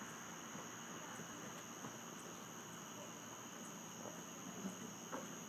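Faint, steady chorus of crickets trilling over a low background hiss.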